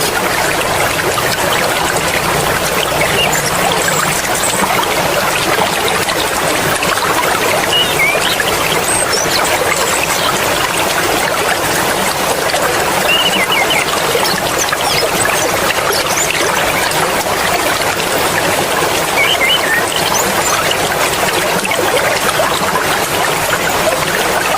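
Steady sound of flowing mountain stream water, trickling and splashing without a break.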